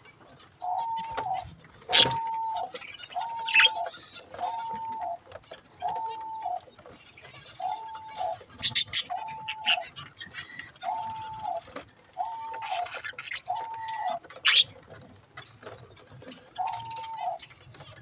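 A bird repeats one steady, even-pitched hooting note about once a second. A few sharp, high chirps from birds come in between.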